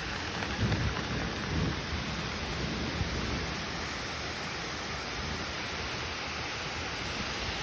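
Steady rain falling outside, heard through an open window, with some low rumbling in the first couple of seconds.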